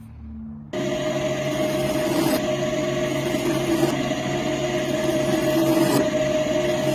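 A small electric motor, such as a power tool, running steadily with a constant whine over a hiss, cutting in abruptly under a second in.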